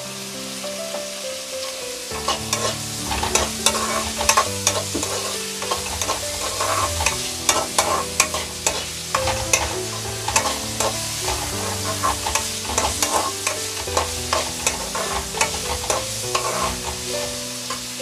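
Chopped onions, green chillies and tomato sizzling as they fry in oil in a kadai, while a steel spoon stirs them, scraping and clinking against the pan many times from about two seconds in.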